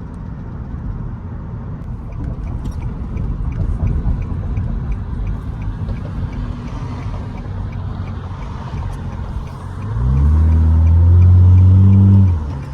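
Straight-piped Nissan Altima's exhaust rumbling low while driving, heard from inside the car. About ten seconds in it swells into a loud drone, rising slightly in pitch for about two seconds as the car accelerates, then drops back.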